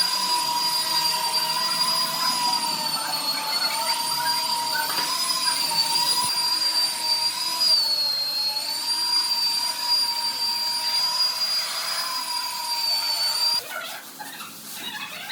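Electric power tool running at speed: a steady motor whine that wavers slightly in pitch, cutting off abruptly near the end.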